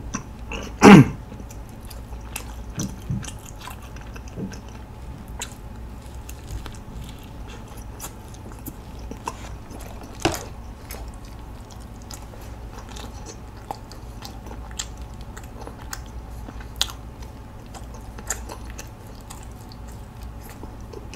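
Close-miked chewing of a mouthful of sausage pretzel with whipped cream: soft, wet mouth sounds with irregular small clicks and smacks. A short vocal sound comes from the eater about a second in.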